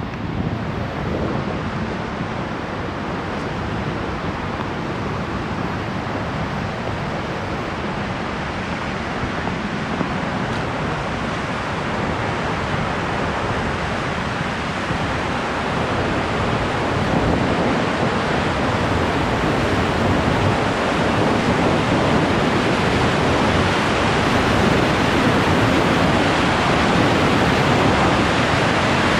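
Fast, powerful mountain river rushing in a steady roar of water, growing gradually louder.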